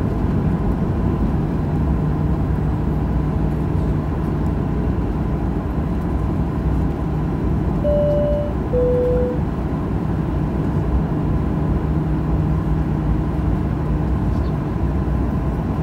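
Steady low rumble inside a Boeing 737-800's cabin on the ground, with its CFM56 engines at idle and the air conditioning running. About halfway through, a two-tone high-low cabin chime sounds once.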